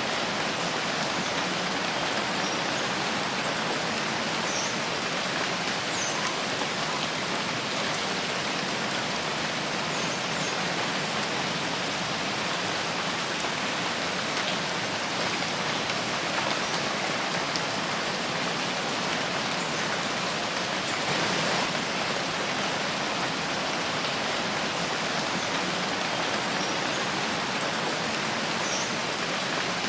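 Steady rain falling in a forest: an even, unbroken hiss.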